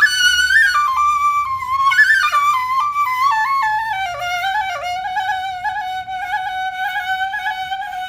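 Instrumental background music: a flute melody runs quickly downward, then settles about halfway through into a long wavering low note.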